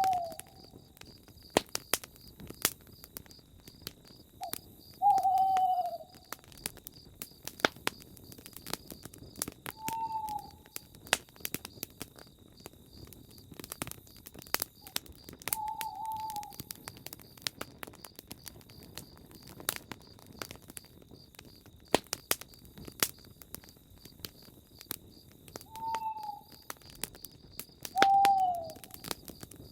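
Campfire crackling with scattered sharp pops. A bird gives a short, slightly falling call about every five seconds, over a faint, steady, high pulsing trill.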